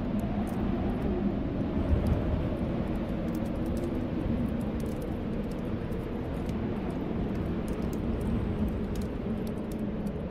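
Steady storm wind with a low wavering howl, and small fireplace crackles scattered throughout.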